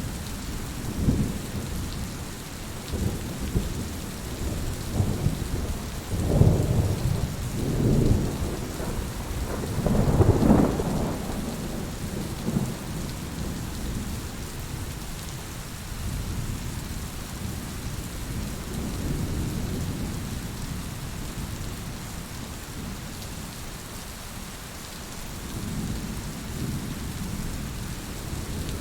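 Heavy rain falling steadily, with thunder rumbling through it; the rumbles swell most strongly about a third of the way in, then fade to softer distant rolls.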